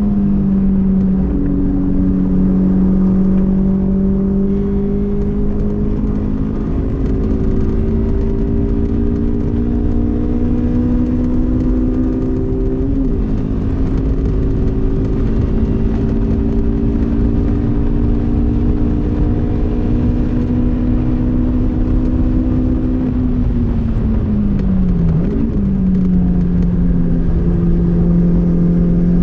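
Honda S2000's inline-four engine pulling hard on track, its pitch climbing slowly for about twenty seconds. The pitch then falls as the car slows, with a quick rev blip, and the engine settles at a lower pitch and pulls again. Steady road and wind rumble runs underneath.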